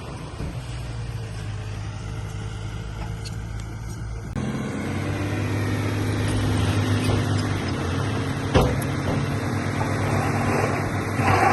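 Heavy diesel engine of earthmoving machinery running steadily. About four seconds in the sound changes abruptly and grows louder with more engine tones, and a single sharp knock comes later.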